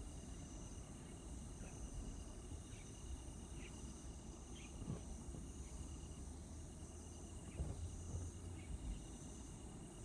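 Crickets trilling steadily, with a few short higher chirps, over a low rumble; two soft thumps near the middle and about three-quarters of the way through.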